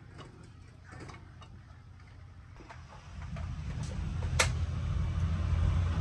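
A few light clicks and knocks, then about three seconds in a machine's motor starts and a low rumble builds, growing steadily louder, with one sharp click partway through.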